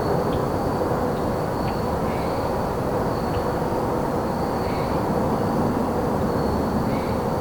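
Evening forest ambience: crickets trill in a steady high line over a steady low rumble of traffic, with a few short bird chirps scattered through.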